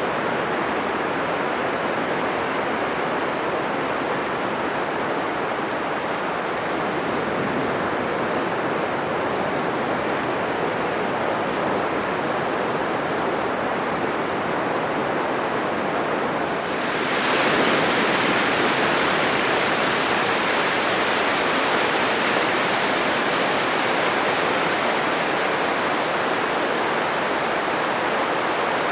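Atlantic surf breaking on a sandy beach: a steady rushing wash of waves. A little past halfway it swells louder and hissier as the surf breaks nearer.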